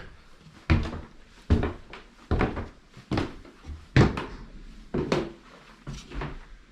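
Footsteps climbing a flight of indoor stairs, a thud about every 0.8 seconds.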